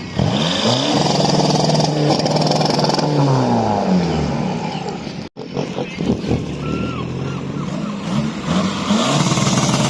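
Car engine revved hard several times, its pitch climbing and falling with each rev. The sound cuts out for an instant about halfway through.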